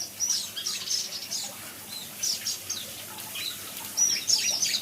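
Several small songbirds in an aviary chirping rapidly, with many short, high calls in quick clusters, a busy burst at the start and another near the end.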